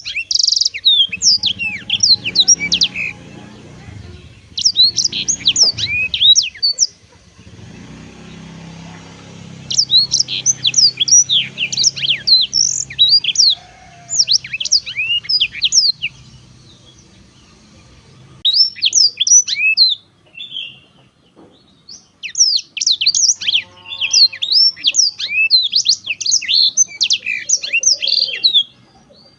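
Black-throated canary (blackthroat) singing: repeated phrases of rapid, high sweeping chirps and trills, each a few seconds long, broken by short pauses.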